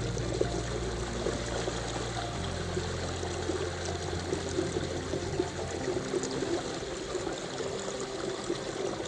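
River water running and trickling, a steady flowing wash.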